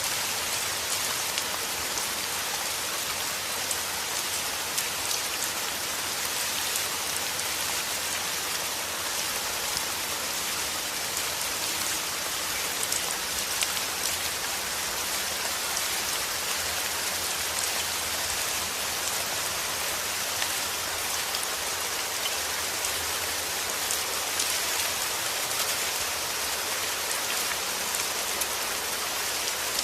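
Heavy rain falling steadily: a dense, even hiss sprinkled with many small drop ticks.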